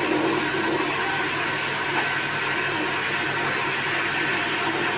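Heatstore HS 5100 heater's fan running: a steady rush of air with a faint constant whine and a low hum.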